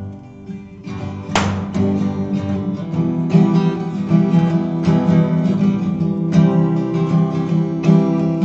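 Acoustic guitar being strummed. A chord comes in at the start, a sharp strum follows about a second in, and a steady strumming pattern runs on from there.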